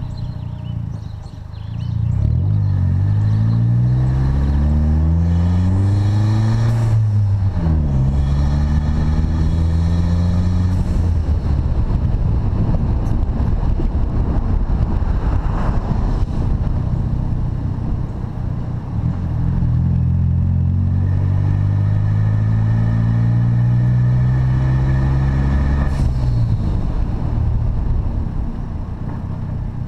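2012 Chevrolet Sonic's turbocharged 1.4 L four-cylinder, with aftermarket intake and resonator-only exhaust, pulling under acceleration: the engine note rises, drops at an upshift about seven seconds in with a short sharp sound, and rises again. Later comes a second pull, its note climbing steadily until another shift with a sharp sound near the end.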